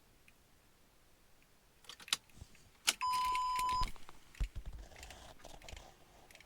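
Car keys jangling and clicking, then one electronic beep from the Lexus SC430 lasting just under a second, followed by a few low thumps and small knocks.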